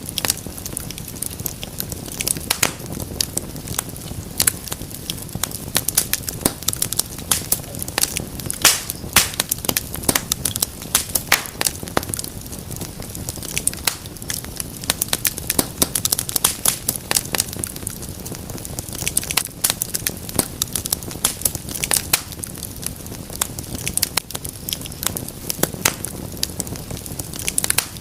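Wood fire in a fireplace crackling, with many irregular sharp pops and snaps over a low steady rumble of the burning logs.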